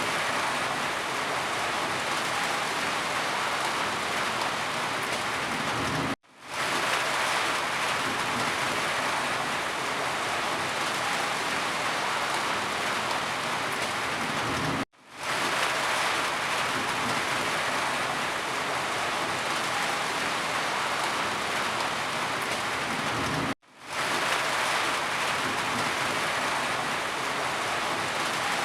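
Steady, dense rain hiss. It is broken three times, about nine seconds apart, by a sudden brief gap of near silence that fades quickly back in.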